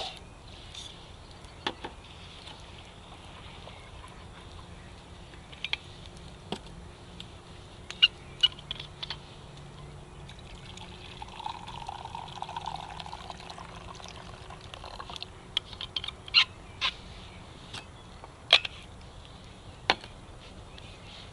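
Campfire crackling, with scattered sharp pops over a steady evening background hiss, and a few seconds of trickling water around the middle.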